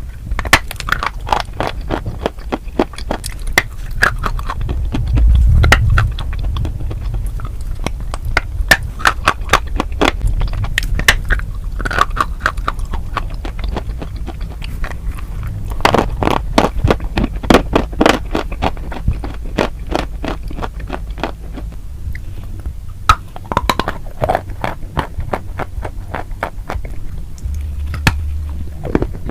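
Close-miked crunchy chewing: dense, irregular crackling crunches of food being bitten and chewed, over a steady low hum.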